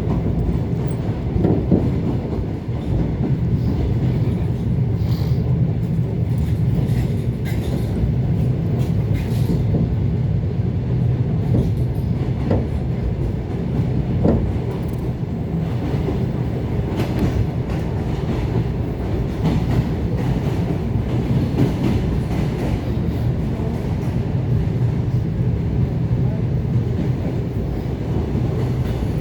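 ET2 electric multiple unit running along the line: a steady rumble of wheels on rails with a low motor hum and occasional faint clicks of wheels over rail joints.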